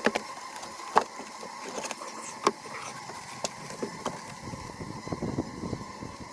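Wooden hive parts knocking and clicking sharply several times as comb and frames are handled, over the steady hum of honeybees around the opened hive.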